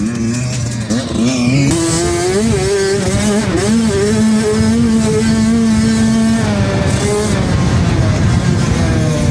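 65cc two-stroke motocross bike engine being ridden hard, its pitch climbing and falling with the throttle and gear changes. It holds a steady note for a couple of seconds midway, then drops and picks up again.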